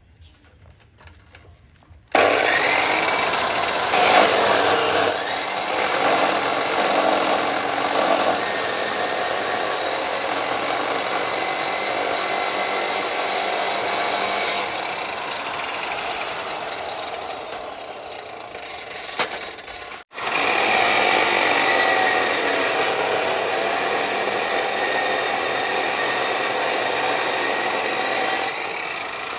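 Chainsaw cutting through wood: a long cut starts suddenly about two seconds in, breaks off sharply about twenty seconds in, then a second cut runs until just before the end.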